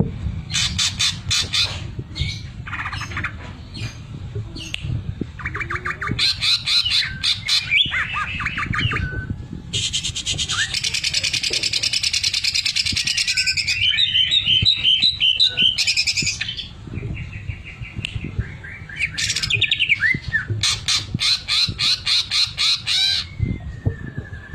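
Caged green leafbird (cucak ijo) singing loudly in bouts of very fast, machine-like rattling trills, the 'sewing machine' (mesin jahit) mimicry filling, broken by a long harsh hissing call around the middle and runs of quick repeated chirps.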